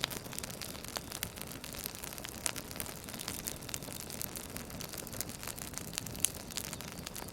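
Campfire crackling: a steady hiss of burning wood with frequent sharp pops and snaps, one louder pop a little past six seconds in.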